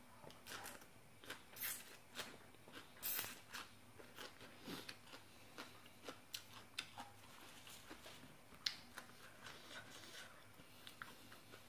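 Close mouth sounds of a person chewing a mouthful of raw bean sprouts: a faint, irregular run of sharp crunches and wet clicks.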